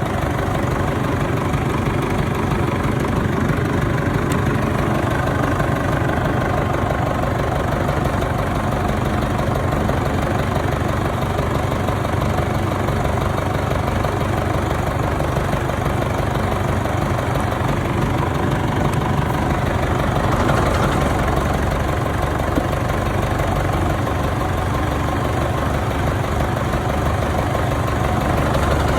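Nuffield 10/60 tractor diesel engine idling steadily with an even low knock.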